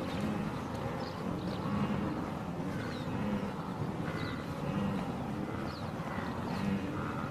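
Outdoor wildlife ambience: a steady noisy background with short animal calls recurring about once a second.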